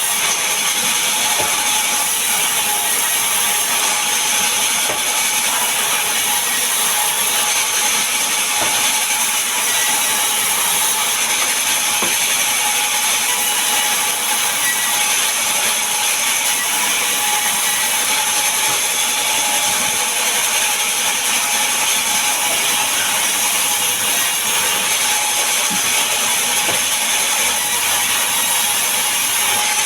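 Power saw running steadily while cutting mahogany and pine, a continuous loud hiss with a high, even whine.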